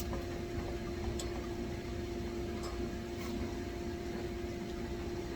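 A steady electrical hum over a low rumble, with a sharp click at the start and a few faint ticks during it.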